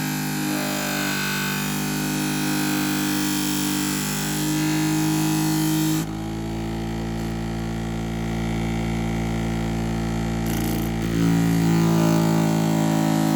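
Scissor-sharpening machine's motor running with a steady hum while a knife blade is ground on its 400-grit wheel. The grinding noise stops about six seconds in as the blade comes off the wheel, and starts again near the end.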